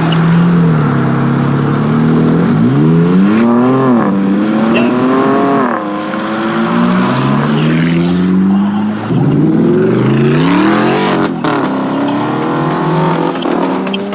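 Car engine accelerating hard, its pitch climbing and falling back several times as it revs up again and again.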